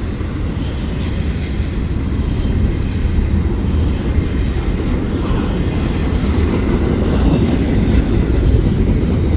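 Double-stack freight cars rolling past: a steady low rumble of steel wheels on rail, getting a little louder near the end.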